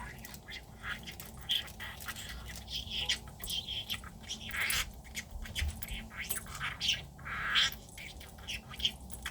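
Budgerigar chattering: a busy run of short chirps, clicks and squawks.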